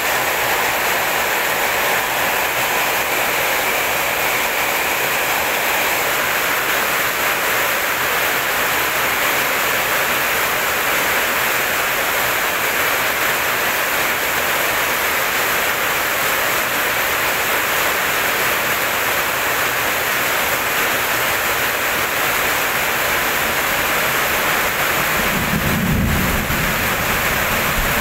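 Steady heavy rain, with a low rumble of thunder coming in near the end.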